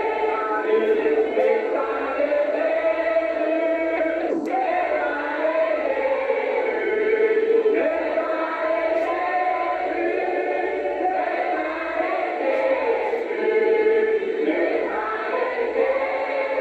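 A group of voices singing a hymn together, with long held notes that glide up and down.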